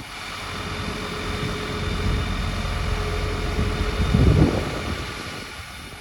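Scania P270 truck's diesel engine running, with a low rumble that swells to its loudest about four seconds in and then fades.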